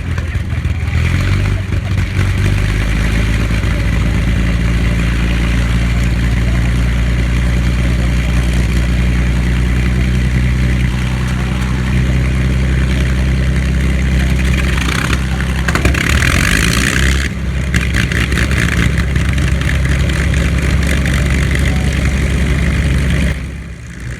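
Large engine running steadily and loudly, with a brief hiss around two-thirds of the way through.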